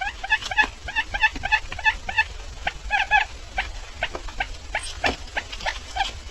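Barred buttonquail calling in a run of short, sharp chirps, about two to four a second and some doubled, over a steady low hum.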